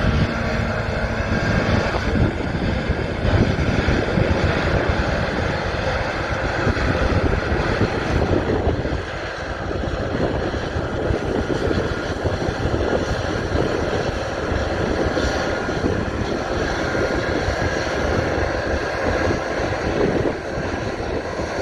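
Claas Lexion 480-series combine harvester running steadily with an even, dense machine noise.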